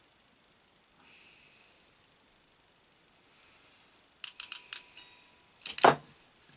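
A quick run of sharp little clicks about four seconds in, then a louder knock near the end: small tools and parts being handled while wiring the bench grinder's terminals.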